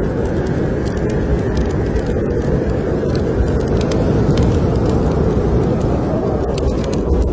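Steady low rush of blizzard wind, with the sharp crackles and pops of a wood fire in a fireplace scattered throughout.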